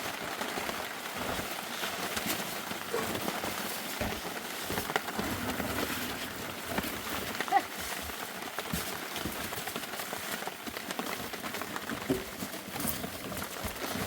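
Steady rain falling, an even hiss throughout, with a few short sharper sounds over it, the loudest about seven and a half seconds in.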